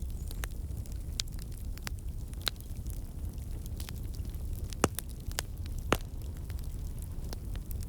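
Fire crackling in a fireplace: scattered sharp pops and snaps over a steady low rumble of flames, with two louder pops about five and six seconds in.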